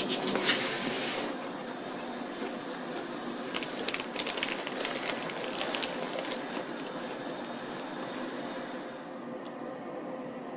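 A steady rushing hiss, loudest for about the first second, with scattered clicks and crackles in the middle. Its highest part dies away near the end.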